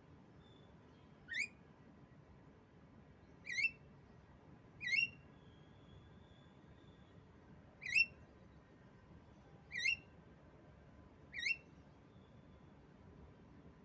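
Javan myna (jalak kebo) giving six short, sharp calls, each rising quickly in pitch, spaced one and a half to three seconds apart.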